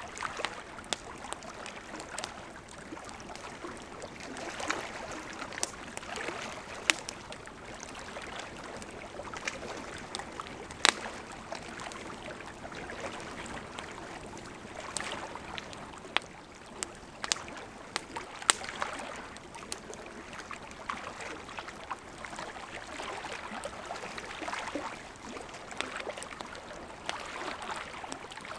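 Burning wood crackling over a steady soft hiss, with irregular sharp pops throughout; the loudest snaps come about seven, eleven and eighteen seconds in.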